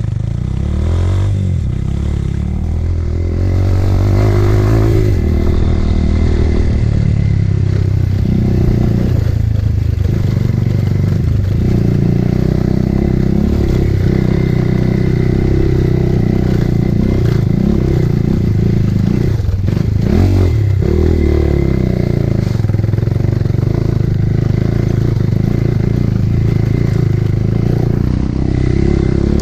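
Motorcycle engine running as the bike is ridden along a rough off-road track, its pitch rising and falling with the throttle.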